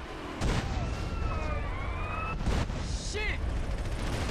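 Video game police-chase sound effects: sirens wailing in gliding, curving tones, with a few sharp bangs of gunfire and explosions.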